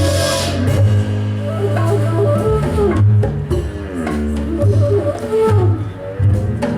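Live band music: a deep, sustained bass line under a melodic lead line that slides up and down in pitch, with a few drum hits.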